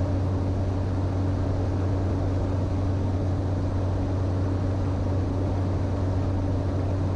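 Steady drone of a Cessna Caravan 208's turboprop engine and propeller heard inside the cockpit in level flight, an even hum with a constant low tone.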